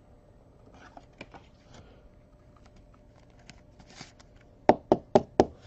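Light rustling and faint clicks of trading cards being handled and sorted, then four sharp taps in quick succession near the end, about four a second.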